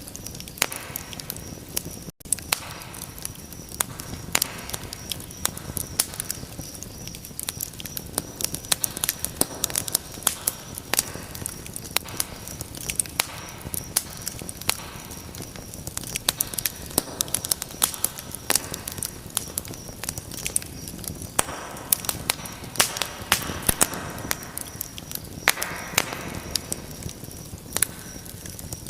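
Wood fire crackling in a fireplace: a dense, irregular run of sharp pops and snaps over a soft steady hiss of flame, with a split-second dropout about two seconds in.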